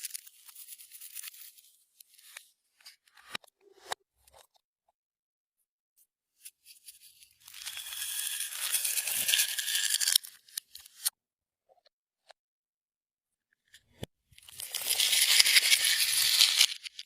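Clear slime being worked by hand, with two long bursts of dense crackling and popping, one in the middle and one near the end, after a few scattered small clicks.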